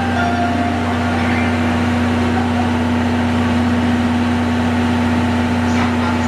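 A train standing at a station platform, its on-board equipment giving a steady, unchanging hum with a constant low drone.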